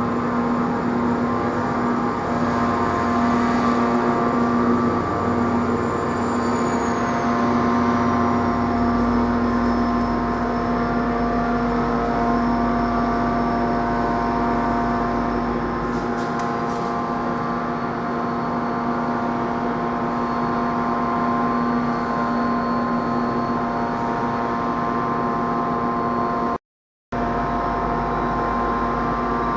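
A train running steadily at a station: a constant hum with many steady tones, and a high-pitched whine that glides down about six seconds in and then holds. The sound drops out for a moment near the end.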